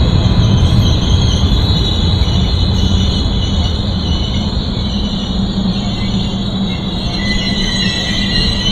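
A Trenitalia Tper Hitachi Rock double-deck electric train running past the platform: a steady low rumble of wheels on rail under a high, even whine. The sound fades slightly as the cars go by.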